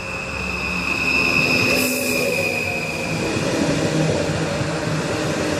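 Train moving along the track with its wheels squealing on the rails: a steady, high-pitched screech over the rumble of the cars.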